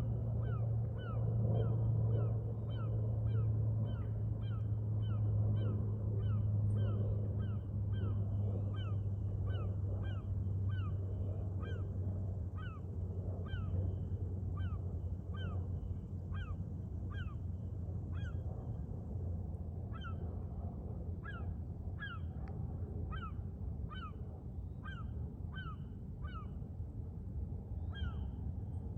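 A bird calling over and over in short falling notes, about two a second, with a low steady hum underneath that is louder for the first twelve seconds or so and then eases off.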